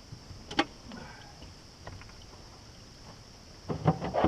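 Sharp knocks and clatter on a kayak: a single knock about half a second in and a quick run of several near the end, over a steady high hiss.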